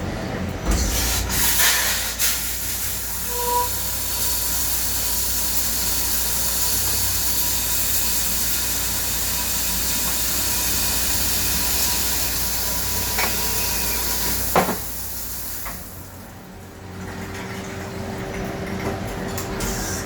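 CNC turn-mill lathe running a machining cycle: a steady, loud hiss over a low machine hum from about a second in. A short beep comes a few seconds in. A sharp click at about fifteen seconds is followed by the hiss dying away, leaving a quieter running sound.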